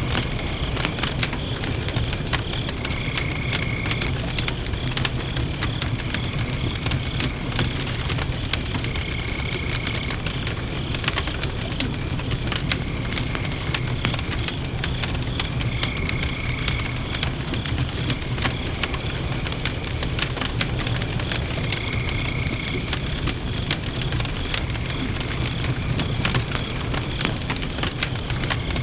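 Wood fire burning in a fire pit, crackling and popping steadily over a low rumble. A faint high tone about a second long recurs every few seconds.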